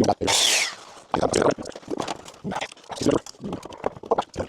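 Saw cutting through a scrap board in two long rasping strokes, then a string of irregular knocks and clatter as the wood is handled.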